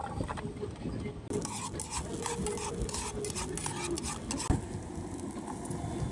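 A utensil stirring food in a pan, with irregular clicks and scrapes against the pan and food sizzling.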